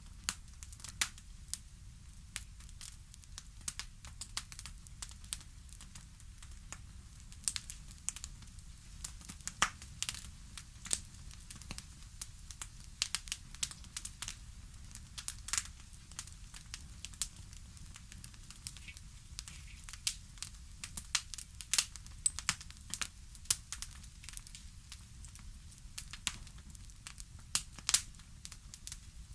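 Wood fire in a fireplace crackling: frequent irregular sharp pops and snaps over a low steady rumble.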